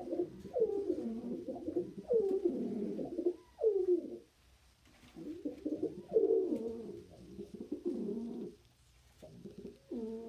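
Domestic pigeon cooing in a run of low, repeated phrases, each sliding down in pitch, with short pauses about four seconds in and again near the end.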